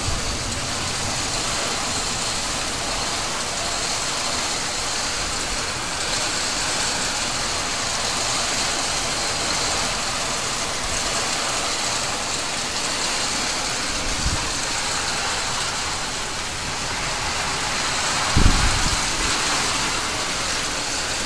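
Heavy downpour with hail drumming on corrugated metal roofing: a dense, steady hiss and patter. Two short low thumps come in the later part.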